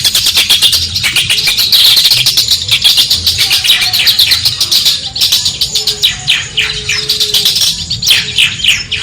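Long-tailed shrike (cendet) singing: a dense, rapid chattering of scratchy high notes, changing about five seconds in to a quick run of downward-sweeping whistled notes.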